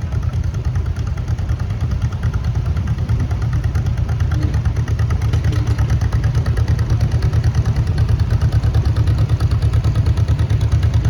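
1948 John Deere A tractor's two-cylinder engine running with a rhythmic, even popping exhaust, growing a little louder as it goes by.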